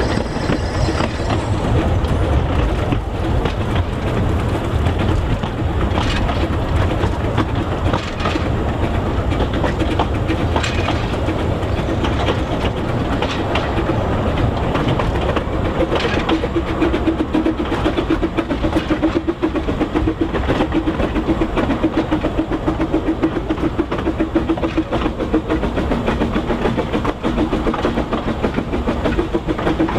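Narrow-gauge steam train running on the Talyllyn Railway, its wheels clattering steadily along the track. From about halfway a steady hum joins in and the sound pulses in a quick, even rhythm.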